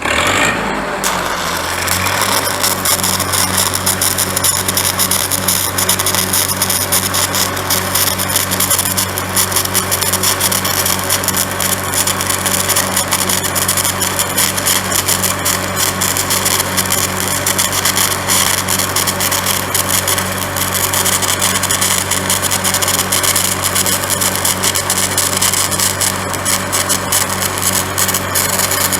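Stick-welding arc from a 7018 electrode crackling continuously as it burns, over the steady hum of the engine-driven welding machine. The arc strikes at the start, and the welder's engine comes up to speed about two seconds in.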